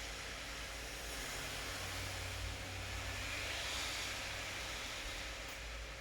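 Rain falling steadily as an even hiss over a low rumble, the hiss swelling in the middle and easing toward the end.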